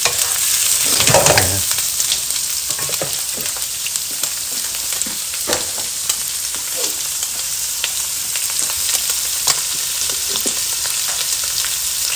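Meat and onion sizzling in a hot nonstick wok, stirred with a wooden spatula for the first couple of seconds, then frying on with a steady hiss and scattered small pops.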